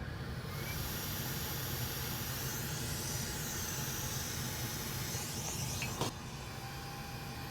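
Hot air rework station blowing with a steady hiss while a chip is soldered onto a laptop motherboard. There is a sharp click about six seconds in, after which the hiss is a little quieter.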